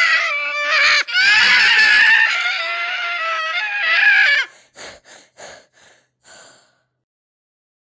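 A cat yowling: one long, loud, wavering call broken briefly about a second in, ending after about four and a half seconds. It is followed by about five short breathy bursts.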